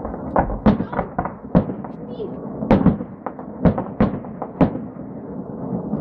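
Fireworks mortar shells bursting overhead: a quick, irregular series of sharp bangs, about eight to ten in six seconds, over a continuous low rumble.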